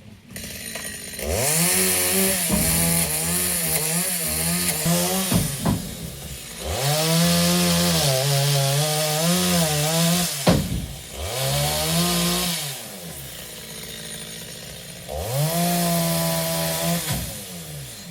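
Two-stroke chainsaw revving up and cutting acacia logs four times, the pitch wavering under load, then dropping back to a quieter idle between cuts.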